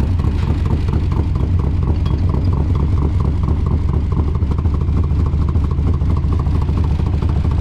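1982 Camaro's 5.0 V8 running steadily through its newly installed mufflers, a low, even exhaust rumble.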